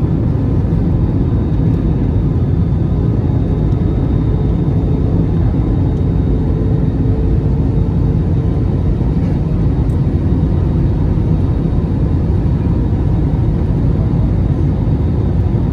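Airbus A321-200 cabin noise during landing: a steady low rumble with a faint steady whine over it.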